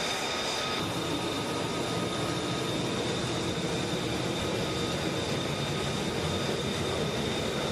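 F-35B Lightning II's jet engine running steadily: a constant rush of noise with a steady high whine on top, part of which drops away about a second in.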